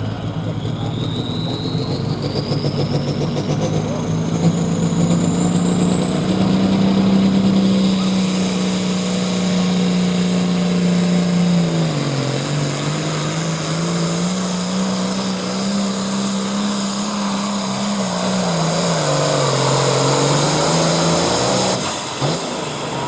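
John Deere hot farm pulling tractor's turbocharged diesel engine running at full power through a pull, with a turbo whine that climbs steadily over the first eight seconds. The engine pitch sags twice, about 12 and 19 seconds in, and the sound drops off suddenly near the end as the pull finishes.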